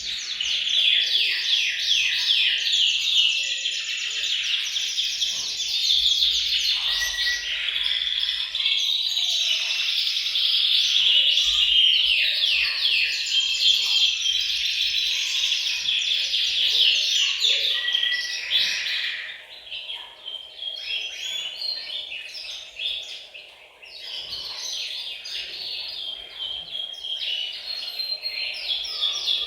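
Several male canaries singing together, their fast trills and rolls overlapping in a dense chorus. About two-thirds of the way through, the chorus thins out and grows quieter.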